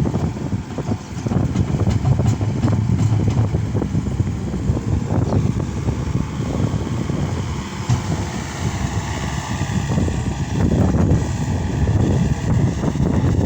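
Case SR200 skid steer loader's diesel engine running while working, its level rising and falling with the load, with scattered knocks and clatter over it.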